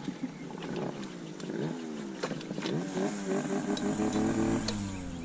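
Small pit bike engine running, its pitch rising and falling as the throttle is blipped and eased, then held at a steadier, higher note for about a second and a half near the end.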